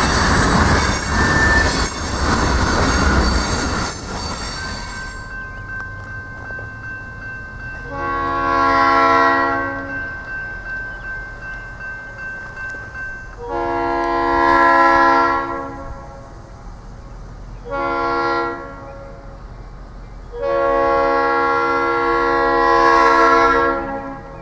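A passing train's loud wheel and rail noise dies away over the first five seconds. Then a diesel locomotive's multi-chime air horn sounds four blasts, long, long, short, long: the standard grade-crossing warning.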